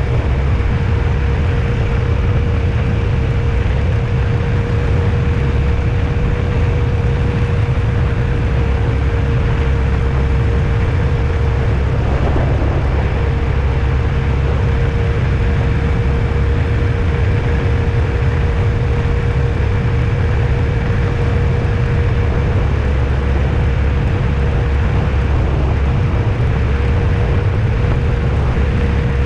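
Vehicle on the move: a steady low road-and-engine rumble with a constant hum over it.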